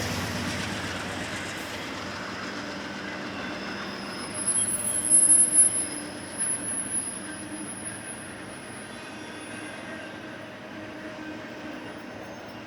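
Freight train cars rolling past with a steady rumble that slowly fades. About four seconds in, a high-pitched wheel squeal rises, peaks loudest briefly, and dies away by about ten seconds.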